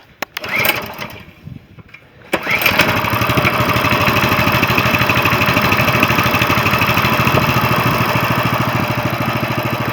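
A Coleman CT200U mini bike's 6.5-horsepower Honda-clone single-cylinder engine starts about two and a half seconds in, after some short knocks, revs up briefly and then runs steadily with a fast, even beat.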